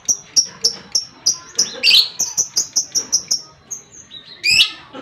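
A lovebird in its long 'ngekek' chatter: a fast, even run of sharp, high chirps, about four a second. There is a louder, harsher squawk about two seconds in and another near the end.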